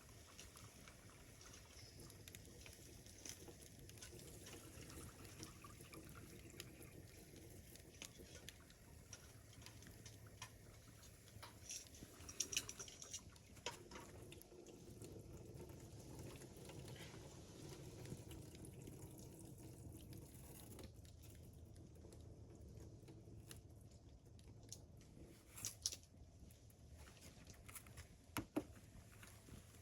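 Near silence: a faint steady background with a few short clicks or knocks, a cluster about twelve seconds in and two more near the end.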